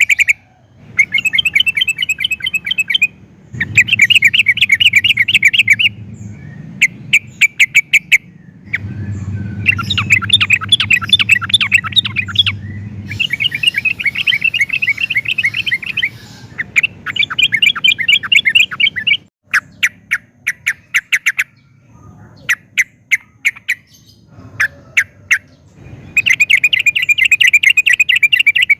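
Yellow-vented bulbul singing loud, repeated bursts of rapid chattering notes, each burst lasting a second to a few seconds, with short sharp calls in the gaps between them.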